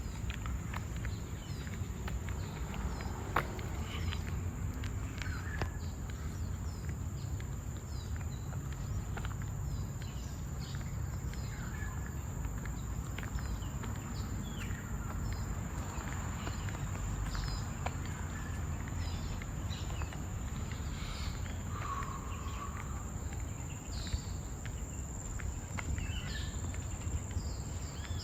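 Forest ambience: a steady high-pitched insect drone, with many short bird chirps and calls scattered through it, over a constant low rumble.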